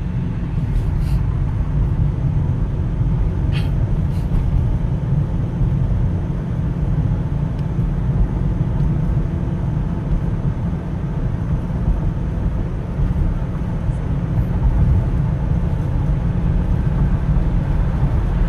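Steady low rumble of a vehicle on the move: engine and road noise, with a few faint clicks in the first few seconds.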